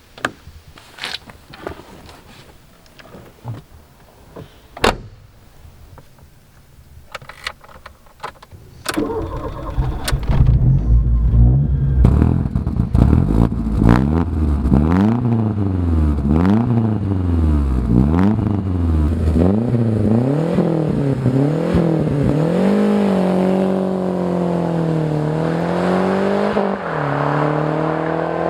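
Lancia Delta Integrale's turbocharged 2.0-litre four-cylinder engine starting after a few scattered clicks and knocks, then being revved up and down repeatedly before settling into steadier running with slow rises and falls in revs.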